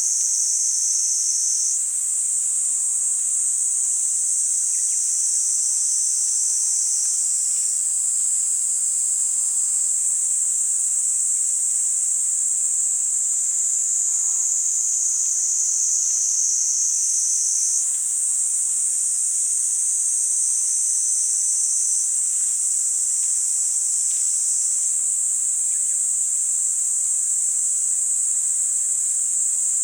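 Niiniizemi cicadas (Platypleura kaempferi) singing a continuous high-pitched shrill buzz. Its tone shifts slightly every few seconds as overlapping singers start and stop.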